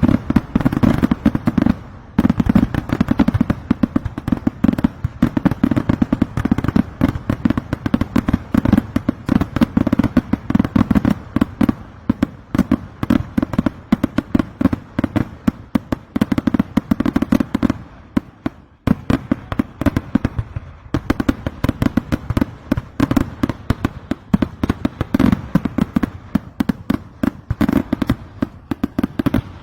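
Kerala temple fireworks (vedikkettu): a rapid, unbroken barrage of loud firecracker bangs, many per second, with a brief dip about nineteen seconds in.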